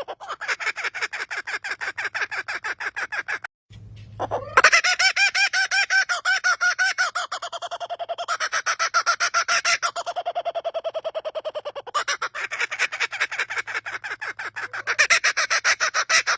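A bird giving a laugh-like call: long runs of rapid staccato notes, about eight a second, rising and falling in pitch. The run breaks off briefly about three and a half seconds in, then starts again louder with a quick upward sweep.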